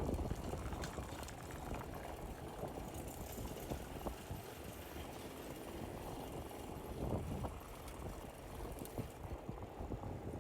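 Steady low rumble of a bicycle riding along a paved street, with wind on the microphone and a few faint clicks.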